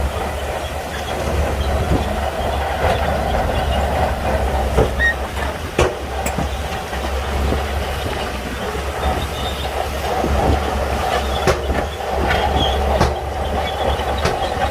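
Shantui bulldozer working, its diesel engine running steadily under the clank and rattle of its steel tracks, with a few sharp knocks.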